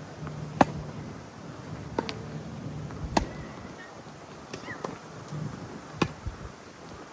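Tennis ball being hit back and forth in a rally: sharp pops of racket strikes and ball bounces, roughly one every second or so, the loudest about half a second in and again about six seconds in.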